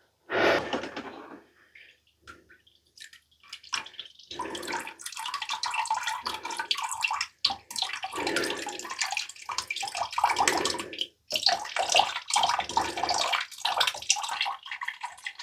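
Water pumped up from a creek running and splashing out of the plumbing in uneven spurts, with brief breaks, as it starts to come through the line.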